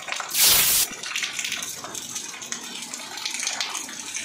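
Steady rain hiss, broken about a third of a second in by a loud half-second whoosh of noise.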